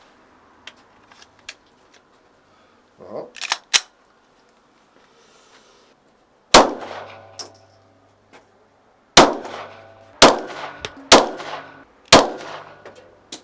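A few light metallic clicks of handling, then six shots from a 9 mm Glock 17 pistol fired in slow single shots about a second apart, each one ringing out.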